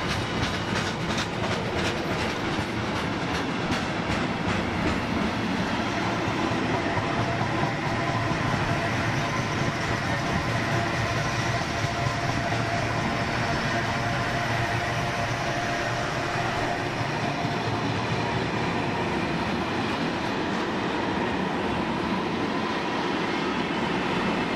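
Intermodal container freight train's loaded flat wagons rolling past on the rails: a steady rumble of wheels with clattering from the wagons.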